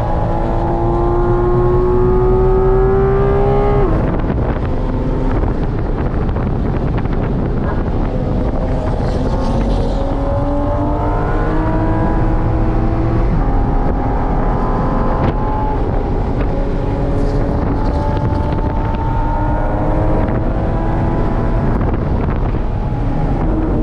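Porsche GT4 RS's naturally aspirated 4.0-litre flat-six heard from inside the cabin, revving hard on track. The pitch climbs steadily and drops off sharply about four seconds in at a shift or lift, then rises again in several more pulls through the corners.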